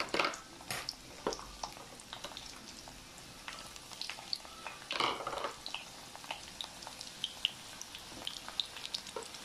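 Garlic sizzling in hot oil in a steel wok, a steady hiss with frequent small crackles and pops and a louder spurt of sizzling about five seconds in.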